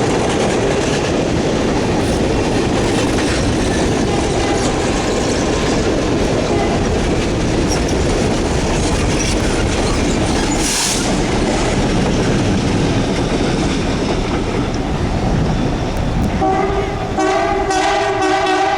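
Train of railroad cars rolling past on the tracks with a steady rumble and wheel clatter. Near the end a multi-note train whistle sounds for about two seconds.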